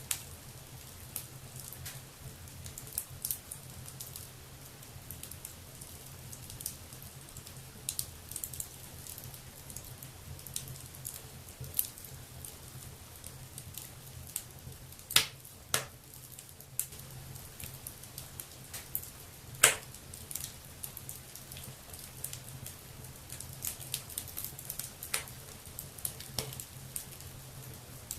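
Wood fire burning in a fireplace: a steady low rumble with scattered crackles and sharp pops, the loudest pops twice near the middle and once more about two-thirds through.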